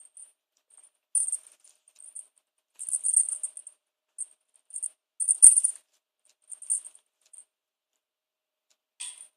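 Cat playing with a Da Bird feather wand toy: irregular short bursts of light, high jingling and rattling, about ten over the span, the loudest about five seconds in.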